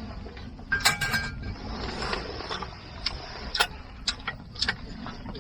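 A series of sharp, irregular clicks and taps over a steady low hiss, with a brief metallic ring about a second in.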